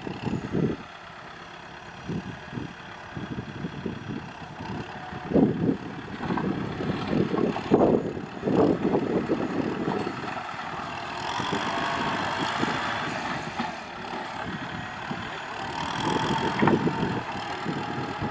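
Kubota M6040SU tractor's diesel engine working steadily while pushing soil, with uneven low surges. It rises under heavier load about eleven seconds in and again near the end.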